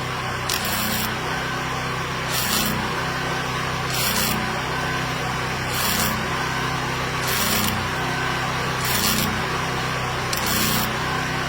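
Repeated rasping strokes, about one every second and a half, like a tool scraping or sawing, over a steady background hum.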